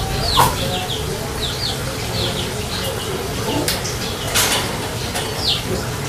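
Small caged birds chirping: short, high calls that each fall in pitch, about two a second, over a low background rumble, with a couple of brief rustles near the middle.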